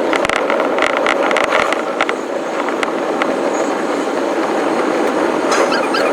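Electric commuter train running along the rails: a steady running noise with a rapid, irregular clatter of wheel clicks.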